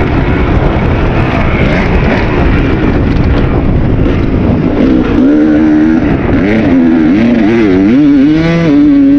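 Kawasaki KX250 two-stroke dirt bike engine under riding, with rough wind and ground noise; about halfway through, the engine note comes to the fore and repeatedly holds, drops and climbs again as the throttle is worked.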